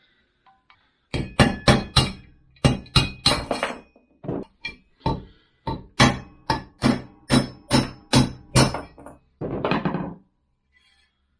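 Hammer blows knocking the wheel bearings out of a scooter's front wheel: about twenty sharp metallic strikes with a ringing tone, two to three a second, then a longer clatter near the end.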